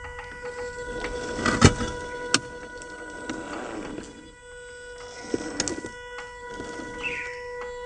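Small electric motor and geartrain of an RC rock crawler whining, with sharp clicks and knocks as it climbs over obstacles.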